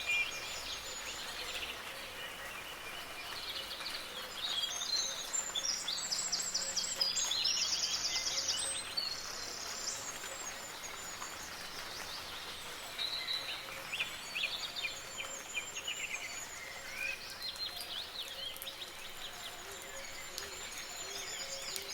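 Several songbirds singing in rapid trilled phrases and chirps over a steady hiss of soft rain, the song busiest and loudest about five to nine seconds in.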